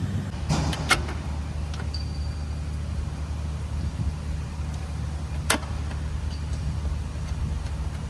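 Toyota 2AR-FE four-cylinder engine idling steadily, with a sharp click about a second in and another near five and a half seconds.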